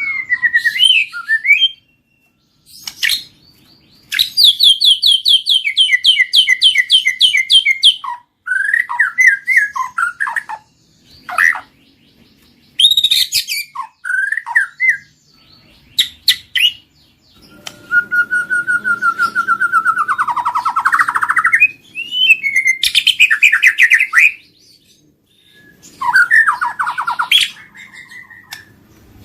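White-rumped shama singing a varied song in separate phrases with short pauses between them. The phrases include fast trills, sliding whistles, and a longer harsh, buzzy phrase in the middle.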